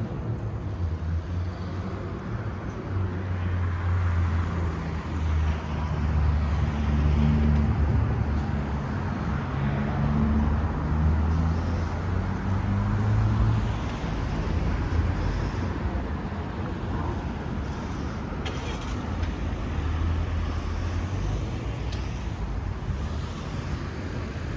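Road traffic close by: vehicle engines running and passing, a steady low engine hum that swells and eases over a haze of tyre and road noise.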